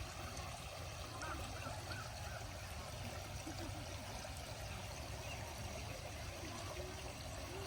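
Steady flowing water, like a stream, running evenly throughout, with three faint short high notes about a second and a half in.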